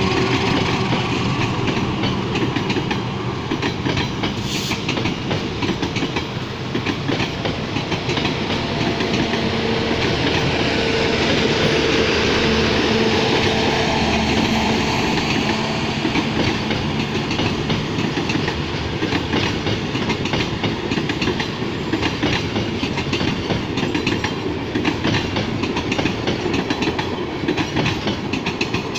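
Passenger train running on the rails, its wheels clattering over the rail joints in a steady, continuous clickety-clack.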